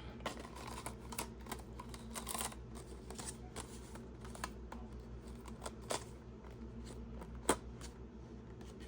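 Faint scattered clicks and light rustling of costume jewelry being handled, with a sharper click about seven and a half seconds in, over a low steady hum.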